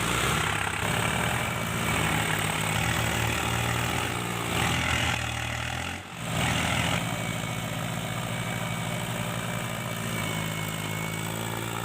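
A motor running with a steady low hum. It is louder and rougher for the first seven seconds, drops briefly about six seconds in, then settles to a steadier, quieter run.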